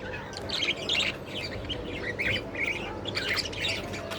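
Budgerigars chirping and chattering: a quick, continuous run of short warbled chirps from several birds together.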